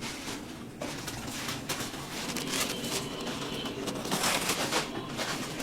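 Computerised sock knitting machines running, a dense, fast clatter of needles and mechanism.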